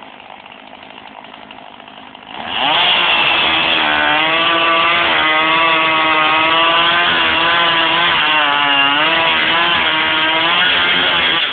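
Chainsaw running low and quiet for about two seconds, then revving up sharply and running at high speed, its pitch wavering and dipping now and then.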